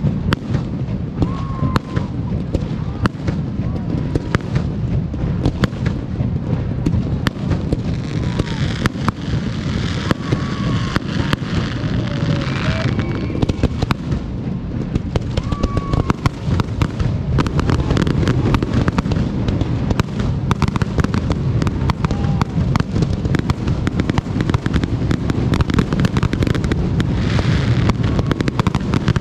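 Aerial fireworks display going off in a rapid, continuous barrage of bangs and pops. Stretches of dense crackling come about a third of the way in and again near the end.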